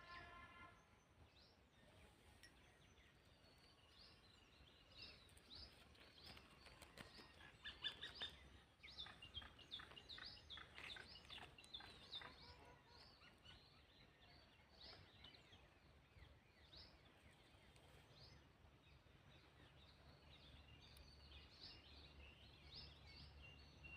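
Small birds chirping faintly: many short, high calls that sweep down in pitch, busiest around the middle, over a faint low hum.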